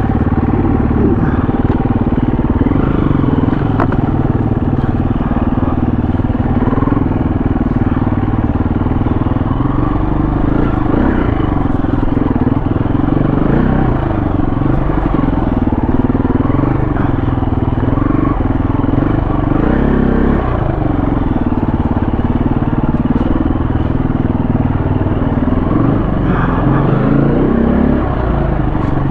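KTM 350 four-stroke single-cylinder dirt bike engine running while riding a trail, its revs rising and falling again and again as the throttle is worked.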